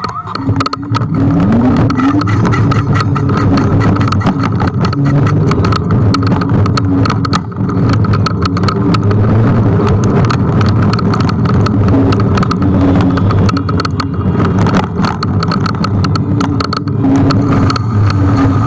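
Ride noise from a Kugoo G1 electric scooter under way: a steady hum, many sharp rattles and knocks, and a short rising whine about a second in.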